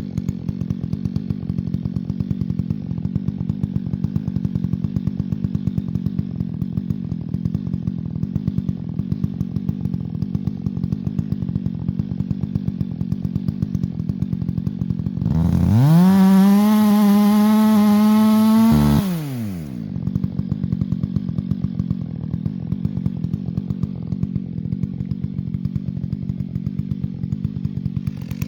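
Two-stroke chainsaw idling with a rapid putter, then revved to full throttle for about three and a half seconds past the middle, its high whine climbing slightly before it drops back to idle.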